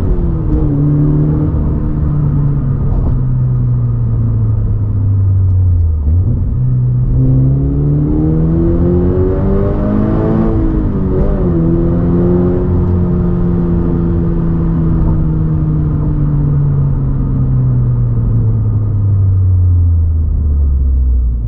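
Exhaust note of a Toyota GR86/Subaru BRZ's 2.4-litre flat-four through a COLBASSO Ti-R Plus single-exit titanium-tail exhaust, driven on the road. The revs fall, climb again for about four seconds, dip sharply once, then fall slowly for the rest.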